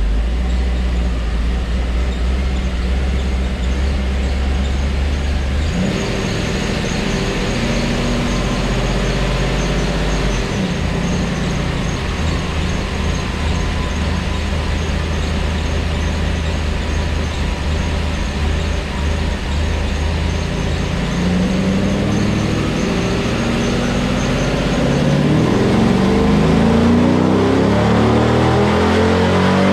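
1998 Corvette's LS1 V8 running on a chassis dyno, holding a steady note for the first half. Past the middle its pitch climbs steadily and it grows louder as the engine is pulled up through the revs, with a thin high whine alongside.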